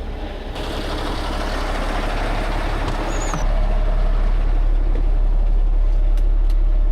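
Heavy wrecker tow truck's diesel engine running, with a broad hiss that starts suddenly about half a second in; the low rumble grows louder a little past halfway.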